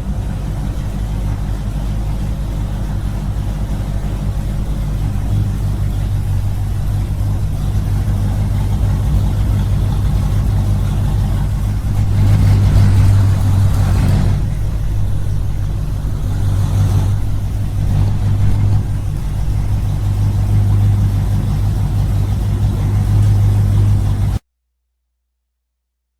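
A small engine running steadily with a low hum, a little louder about halfway through, then cutting off abruptly near the end.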